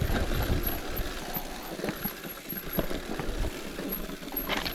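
Rumbling road noise and wind on the microphone while riding a bicycle, with a few light clicks.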